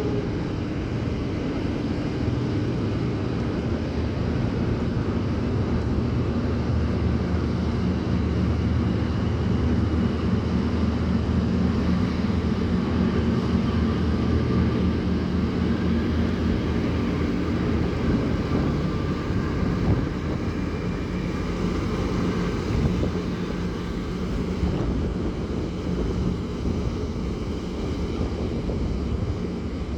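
Ferry's engines running with a steady low drone as the ship leaves port, with wind on the microphone.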